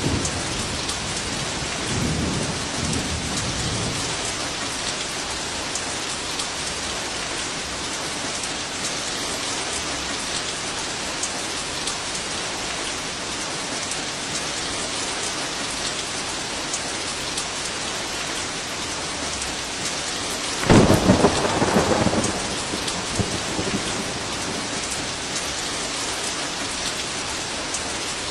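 Heavy rain falling steadily, with thunder: a low rumble a couple of seconds in, then a loud thunderclap about two-thirds of the way through that rolls away over a second or two.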